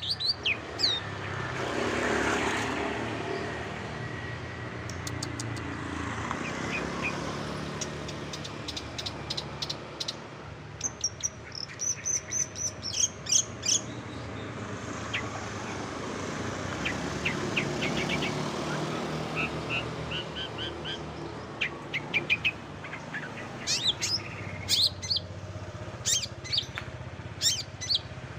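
Long-tailed shrike (cendet) singing a varied string of short, high chirps and quick trills, mimicking other birds' calls. Underneath is a steady background rumble that swells twice.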